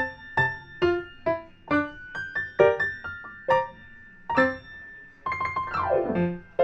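Background piano music: single notes played at an easy pace, with a falling run of quick notes near the end.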